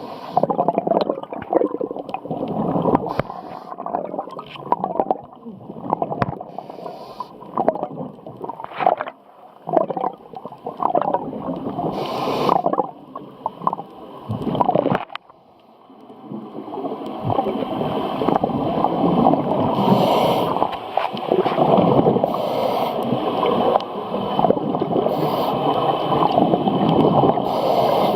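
Underwater gurgling and rushing of scuba bubbles and water, muffled, in irregular surges at first and then a steadier, denser rush from about halfway.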